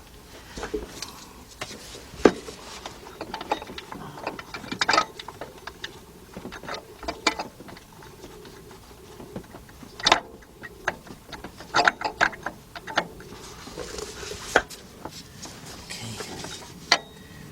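Irregular metallic clicks and knocks as a bolt and a new serpentine belt tensioner are worked by hand into place in an engine bay, while the bolt is being started on its threads.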